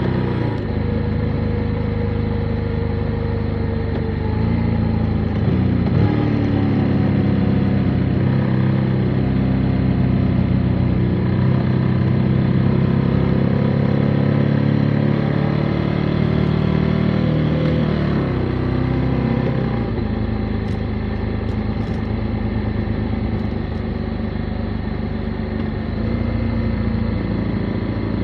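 Motorcycle engine running on the move, its note falling and rising with gear changes and throttle, then dropping about two-thirds of the way through to a steadier, lower pitch.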